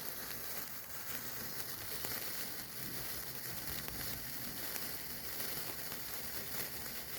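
Lit sparklers burning with a steady sizzling hiss and faint crackling.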